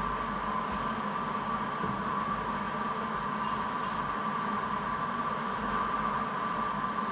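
Steady mechanical hum with a constant whine, unchanging throughout.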